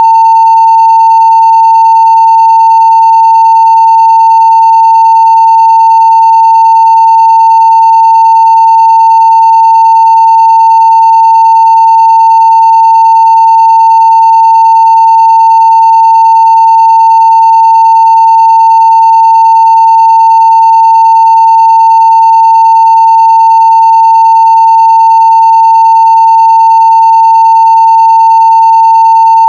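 Continuous 900 Hz sine-wave test tone at full level (0 dB): one loud, unchanging pitch that never breaks.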